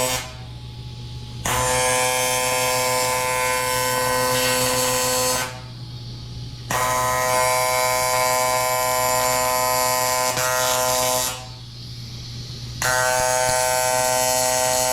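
TIG welder arc buzzing on aluminum, in AC mode, while tack-welding a new aluminum piece to a cast aluminum outdrive lower unit. The arc stops just after the start, then is struck three times for about four seconds each, with short pauses between. A low steady machine hum runs underneath.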